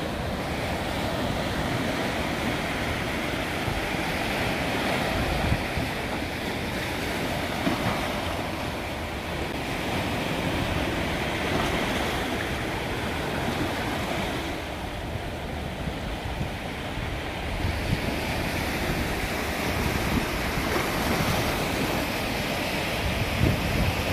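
Sea waves washing in along the shore, a steady rush that rises and falls over several seconds, with wind buffeting the microphone.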